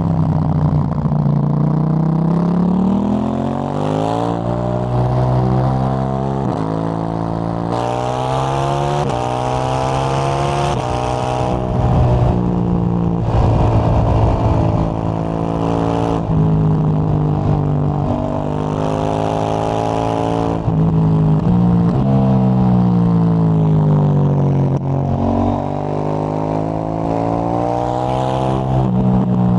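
KTM 890 Duke GP's parallel-twin engine through a Dominator HP8 slip-on exhaust with dB-killer, ridden hard: the engine note climbs through the gears several times, with short sudden dips at each upshift. In between it falls away on deceleration, and it picks up again near the end.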